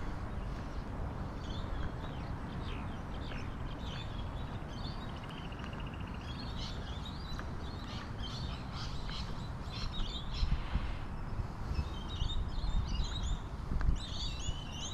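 Birds chirping and calling, busier in the second half, with a brief rapid trill near the middle, over a steady low rumble.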